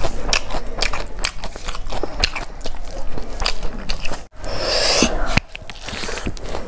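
Close-miked chewing of food: many small wet and crisp crunching clicks, with a brief rustling hiss about four and a half seconds in.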